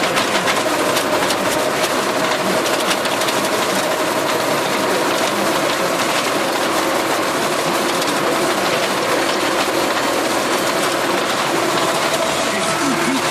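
Tractor engine running under load with its rotary chopper spinning, shredding celery plants; a steady mechanical drone with a dense rattle of chopped material.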